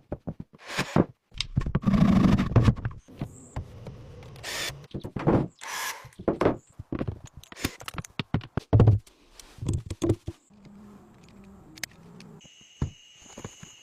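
Assorted repair-work sounds: a string of short knocks, clatters and scrapes of tools on metal, ending in a steady high-pitched whine about a second long.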